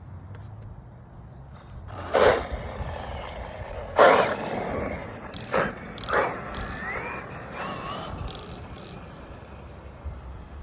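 Brushless 1100kv motor of a 12S belt-drive Traxxas XRT RC truck whining in four short bursts of throttle, with a rising whine about halfway through.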